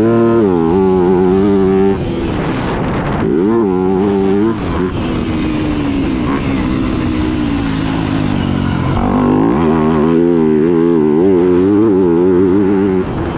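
Yamaha YZ250F's 250cc four-stroke single-cylinder engine, revving up and down as the motocross bike is ridden. The pitch climbs about three seconds in, sinks slowly as the throttle is eased off, and climbs again about nine seconds in.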